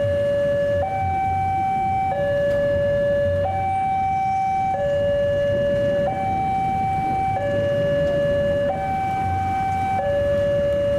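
Railway level-crossing alarm sounding a steady two-tone signal, switching between a lower and a higher tone about every second and a half. It warns road users that a train is approaching.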